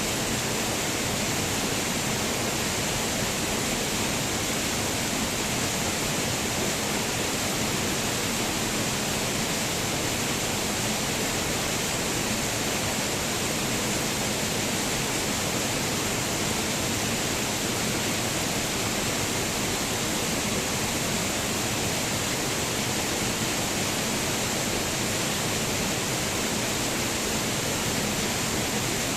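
Waterfall rushing steadily: an even, unbroken hiss of falling water that does not change.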